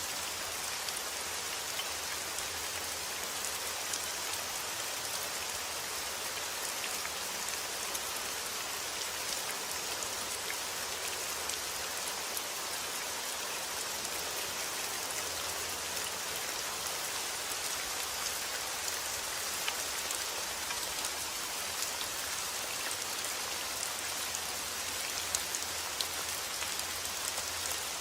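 Steady rain falling, a continuous even hiss with scattered sharp ticks of individual drops.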